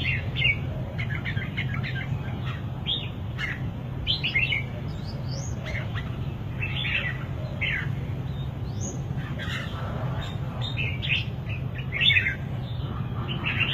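Red-whiskered bulbul singing: short, bright warbled phrases and chirps repeated throughout, over a steady low hum.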